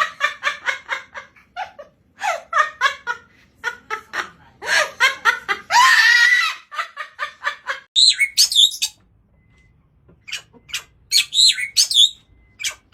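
Pet parrots vocalizing: rapid, pulsing laugh-like chatter, then a loud harsh squawk about six seconds in. After a break near eight seconds come shorter whistled, warbling calls.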